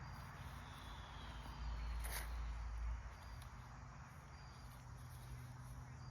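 Faint ambience: short, high insect chirps now and then over a low hum, with a brief low rumble about two seconds in.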